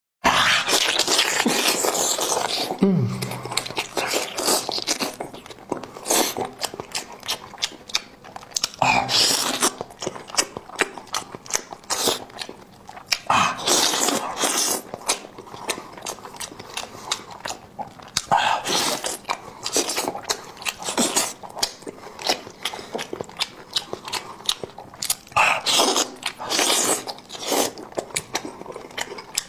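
Close-miked eating sounds: food being bitten and chewed with a dense run of crunches, clicks and mouth smacks, coming in louder spells.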